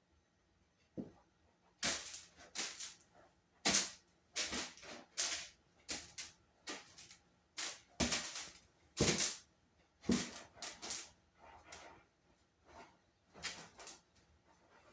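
Playful black kittens scuffling and scratching: an irregular run of short, sharp, scratchy bursts, sometimes several a second.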